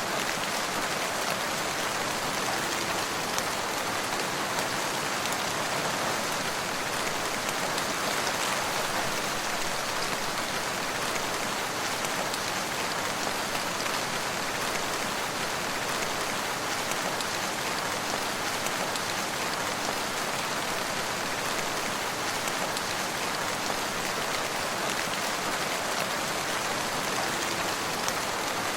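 Steady rain falling on surfaces, an even hiss with scattered small drop patters.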